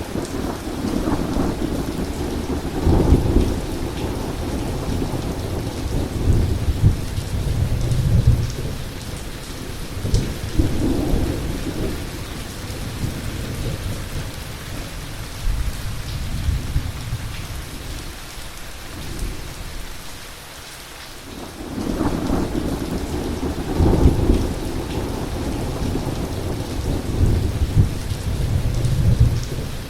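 Heavy rain falling steadily through a thunderstorm, with repeated rolls of low rumbling thunder swelling and fading. The storm eases briefly about two-thirds of the way through, then a louder roll of thunder comes back.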